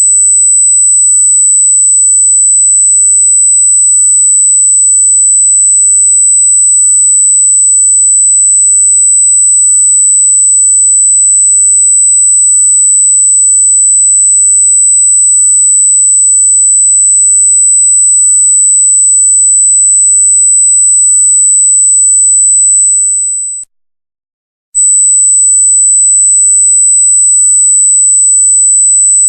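A loud, very high-pitched electronic sine tone, held steady on one pitch, cutting out for about a second near the end before resuming.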